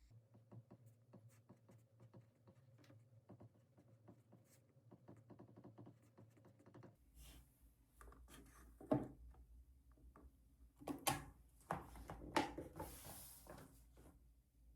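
Faint, rapid small clicks and taps of hands working at a desk. About seven seconds in the background changes, and a few louder knocks and rustles follow.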